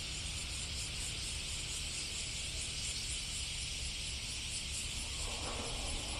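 Steady outdoor ambience of high insect chirring over a low rumble; about five seconds in, a distant Yosan Line electric train begins to be heard approaching, its rumble growing toward the end.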